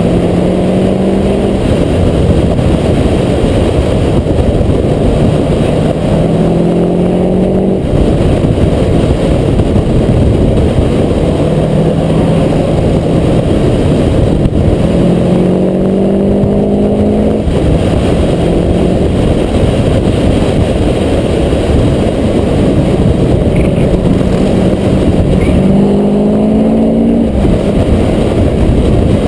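Mazda MX-5 NB 1.8 four-cylinder engine running hard on track under a heavy rush of wind on the roof-mounted microphone. The engine note climbs through the revs and drops back three times, about nine seconds apart.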